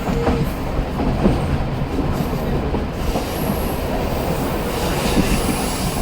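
Passenger train running, heard from on board: a steady rumble and clatter of wheels on the rails, with faint high squeals in the second half.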